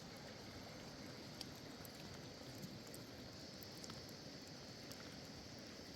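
Faint steady background noise with a few soft ticks.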